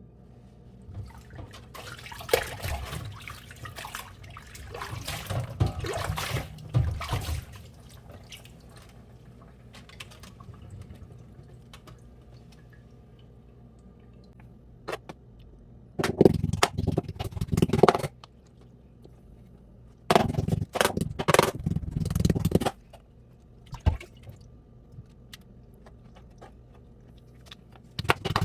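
Water splashing and dripping: several seconds of irregular wet sounds, then two loud bursts of about two seconds each, and a third near the end.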